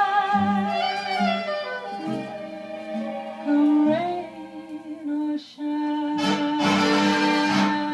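The song's ending: a female vocalist's last held note, with vibrato, over a 1940s studio orchestra. It gives way to the orchestra's sustained closing chords, which swell fuller about six seconds in.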